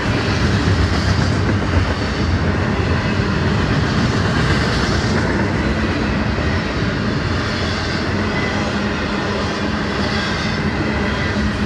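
Double-stack intermodal container well cars of a freight train rolling past. Their steel wheels make a steady rumble on the rails.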